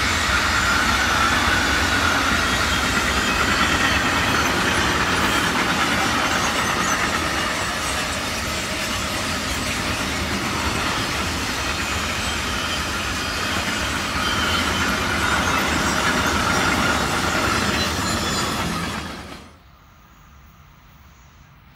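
Freight train of open and tarpaulin-covered goods wagons rolling past at speed: a steady, loud rumble and rattle of wagon wheels on the rails with a high squealing note running through it. It drops away suddenly near the end as the tail of the train passes.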